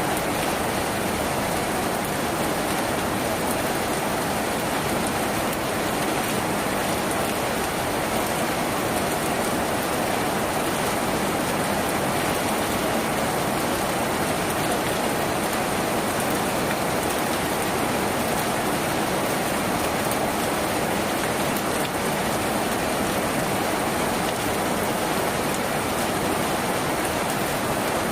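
Steady rain falling on a tin roof, an even, unbroken wash of sound.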